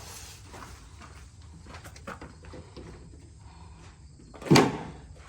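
A school bus's entrance door clunks shut or open once, loudly, about four and a half seconds in, after a few light knocks and steps.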